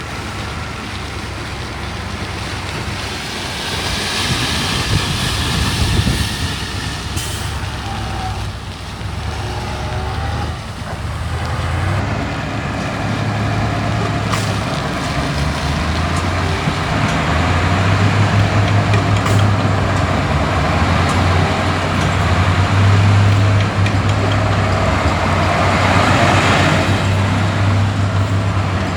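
Heavy diesel earthmoving machinery, a bulldozer and dump trucks, running steadily under load, with the engine drone growing stronger in the second half and a couple of brief hissing surges.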